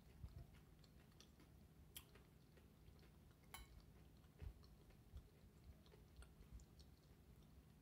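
Near silence with faint chewing of nachos. There are two sharp little clicks, about two seconds in and again at about three and a half seconds.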